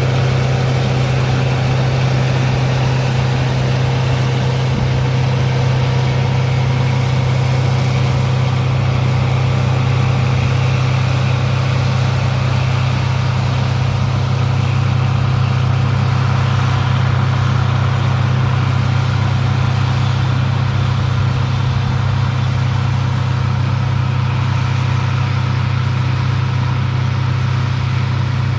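Engine of a large farm machine running steadily at constant speed: an even, strong low drone with no change in pace.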